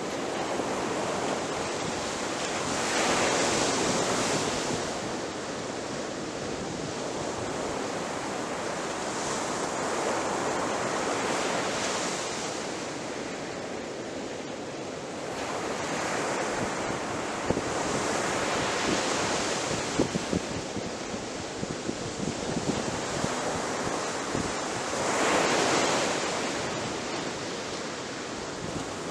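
Sea waves breaking and washing up a beach: a continuous rushing hiss that swells into four surges, roughly one every seven seconds. Brief crackling and fizzing sounds through the middle stretch.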